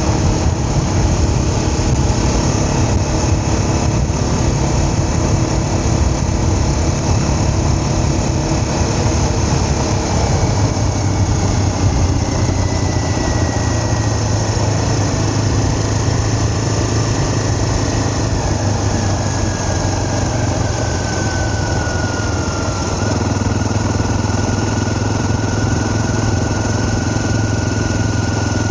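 A vehicle's engine running steadily, with a thin high whine that slowly drops in pitch over about ten seconds and then holds level.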